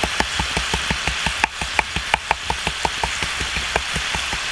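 Octopus cooking in a clay pan over a wood fire: a steady sizzle with a low bubbling throb and many small pops and crackles, several a second.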